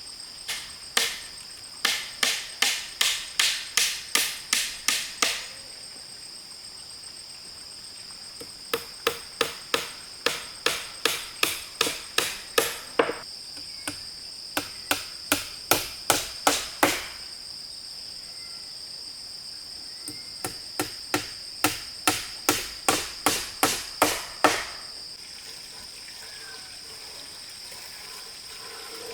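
Hammer blows in four runs of quick, evenly spaced strikes, about three a second, with short pauses between runs. Crickets or other insects trill steadily throughout.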